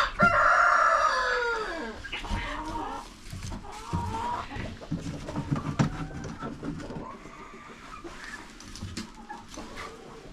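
Rooster crowing once at the start, one long call that falls in pitch at its end, followed by chickens clucking.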